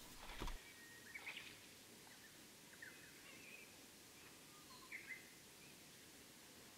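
Near silence with a few faint bird chirps, the clearest about five seconds in.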